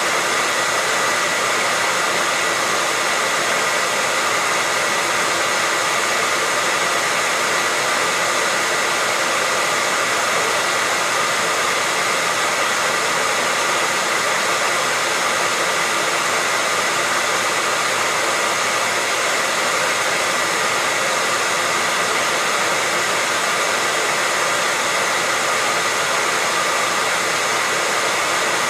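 Hair dryer running steadily at constant speed: an even, unchanging rush of air with a faint steady motor whine.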